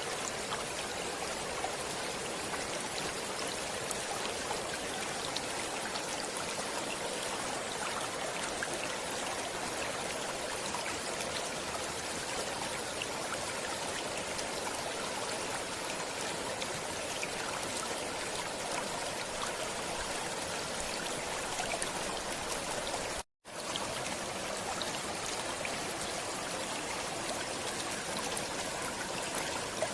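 Stream water flowing in a steady, even rush. The sound cuts out for a split second about three-quarters of the way through.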